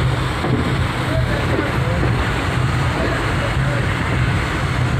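Steady low rumble and noise of a moving vehicle, with faint voices of people talking in the background.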